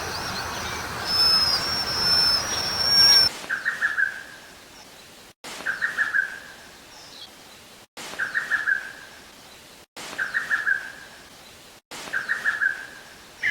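Wild bird calls: high, thin whistled notes over a steady background chorus, then from about three seconds in a short, quickly pulsed call repeated five times about two seconds apart.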